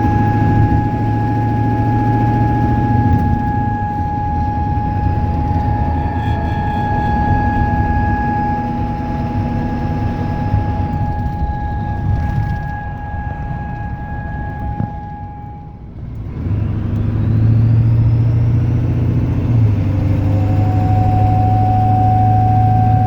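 Ford 7.3 Powerstroke V8 turbo diesel running, with a steady high-pitched chime tone from the dash sounding over it. The tone cuts out about sixteen seconds in as the engine sound drops away. It comes back a few seconds after the engine picks up again. The chime follows engine speed and its cause is not yet known.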